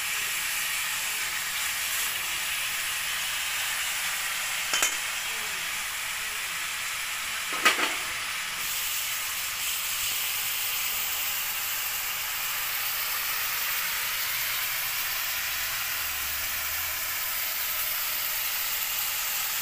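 Chicken pieces frying in oil in a kadhai, a steady sizzling hiss, with two short sharp knocks about five and eight seconds in.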